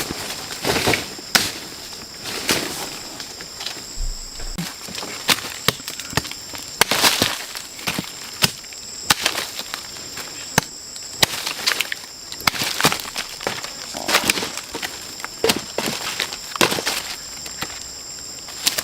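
Rainforest insects droning in two steady high tones, with sharp irregular strikes about once a second.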